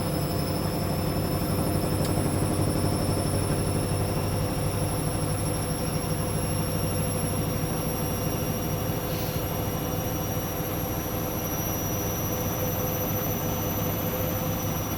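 Hoover washing machine on a spin cycle: the drum spinning at speed with a steady high motor whine over a low hum.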